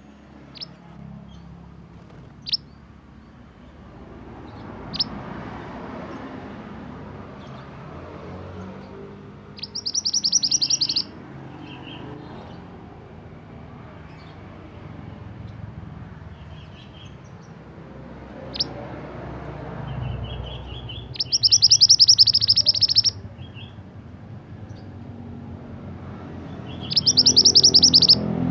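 Pied bushchat (burung mantenan) singing: scattered short, sharp chirps and three loud, fast, buzzy trills of one to two seconds each, about a third of the way in, past the two-thirds mark, and near the end, over a low steady background rumble.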